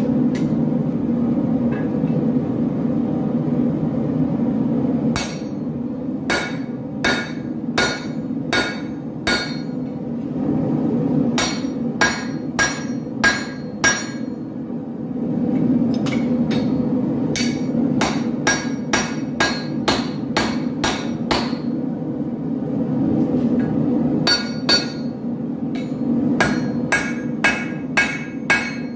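Blacksmith's hammer striking a sword blade on an anvil in runs of blows, each strike ringing metallically, with pauses of a second or two between runs. A steady low roar runs underneath.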